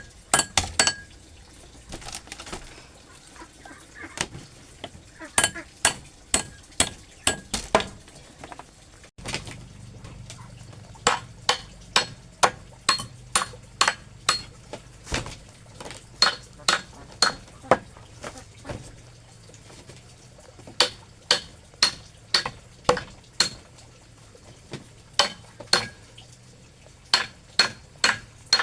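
Metal blade chopping repeatedly, in quick runs of sharp strikes a few to a second, each with a short ringing click. The runs pause now and then. About nine seconds in, a low steady hum joins underneath the strikes.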